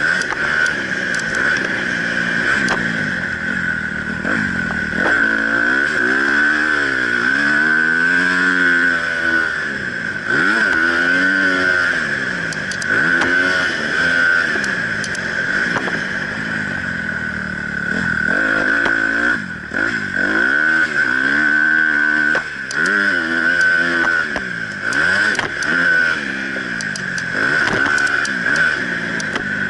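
Honda CRF250 dirt bike's single-cylinder four-stroke engine, heard onboard while the bike is ridden on a motocross track. The engine revs rise and fall over and over as the rider works the throttle and shifts gears through turns and jumps. There is a brief dip in engine sound about 19 seconds in and again around 22 seconds.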